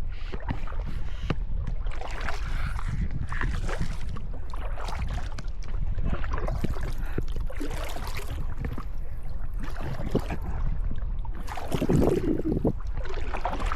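Kayak paddle strokes splashing in the loch, roughly one a second, with wind rumbling on the microphone and a louder splash near the end.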